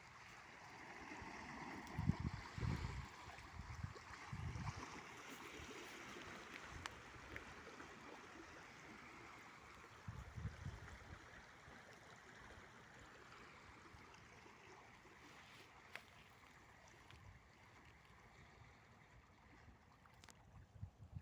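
Wake waves from a passing river cruise ship washing and splashing against the riverbank, faint and steady, with a few louder low thumps about two, four and a half, and ten seconds in.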